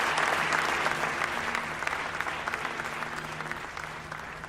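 A crowd applauding, the clapping growing steadily fainter as it fades out.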